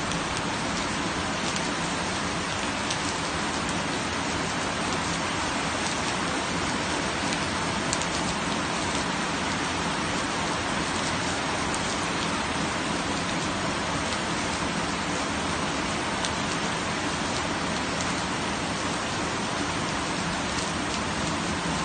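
Steady rain falling on surfaces, with scattered individual drops ticking through it.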